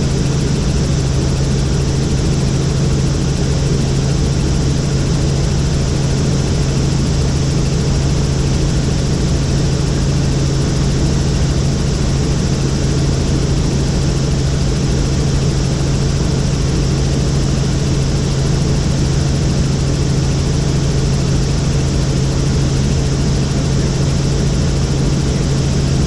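Helicopter in flight heard from on board: the steady drone of rotor and engine with a strong, constant low hum.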